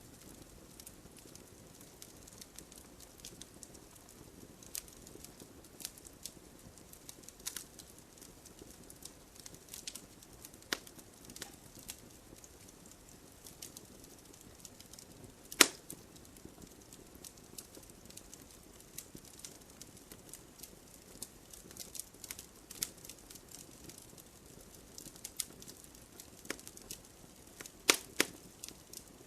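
Wood fire in a fireplace crackling: scattered sharp pops and snaps over a soft low hiss of flames, with one loud pop about halfway through and a quick run of pops near the end.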